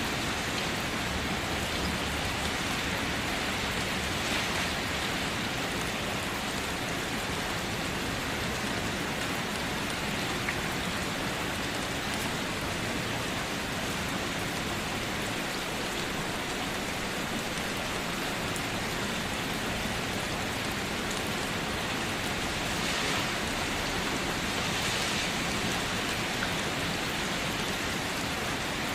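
Steady, even rainfall with no breaks.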